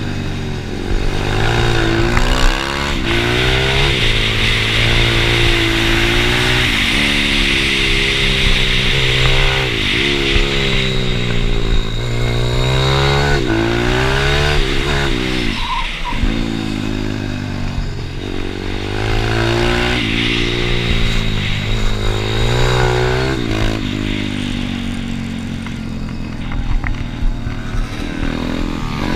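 Pit bike's small single-cylinder engine being ridden hard, its revs rising and falling back every second or two as it accelerates, backs off and picks up again, with a steady hiss underneath.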